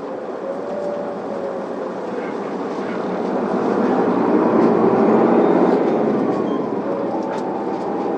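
Inside an Isuzu Elga diesel city bus pulling away from a stop: engine and drivetrain noise swells as the bus accelerates, peaks about five seconds in, then eases as it settles into running speed.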